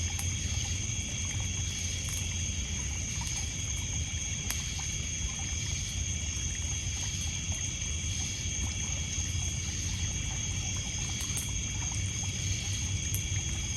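Night lakeshore ambience: water trickling and lapping on a pebble beach under a steady high trilling of crickets and other insects, with a few sharp wood crackles from a campfire.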